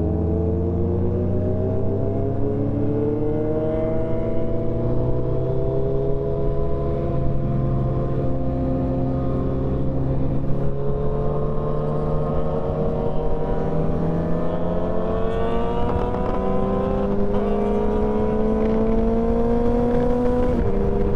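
Motorcycle engine running under steady load, its pitch climbing slowly and evenly as the bike gains speed, then dropping suddenly near the end.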